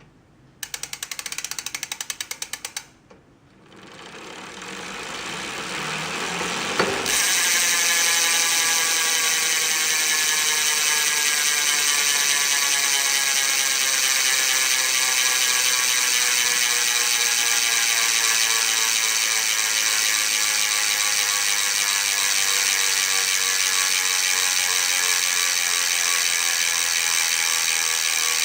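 Bicycle freehub (Quad Equip Pro) ratcheting: a couple of seconds of rapid even pawl clicks, a short pause, then the freewheeling hub's clicks run together into a loud continuous buzz that slowly drops in pitch as the wheel coasts down.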